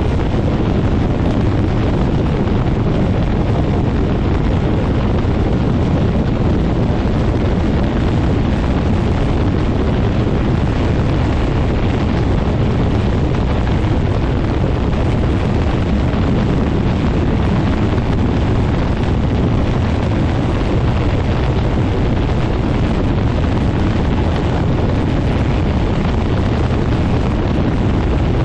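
Quicksilver MX ultralight's engine and pusher propeller running steadily, buried in heavy wind buffeting on the microphone.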